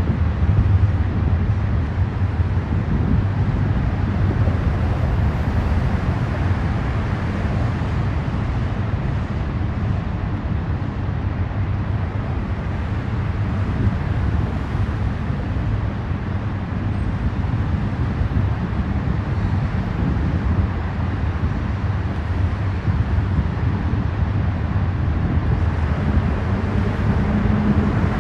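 Union Pacific intermodal freight train rolling past, a steady sound heaviest in the low range from wheels and cars on the rails.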